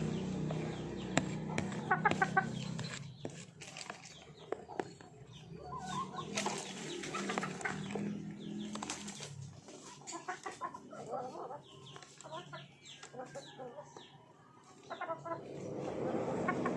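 Chickens clucking in short repeated calls, with wing flapping and sharp clicks among them; a low steady hum runs under the first few seconds.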